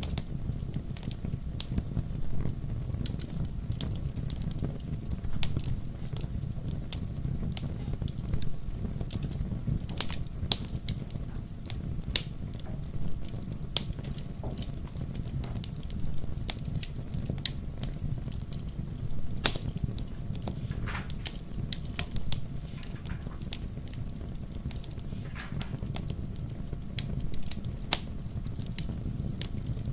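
Fire crackling in a fireplace: a steady low rumble of flames with sharp pops and crackles at irregular intervals.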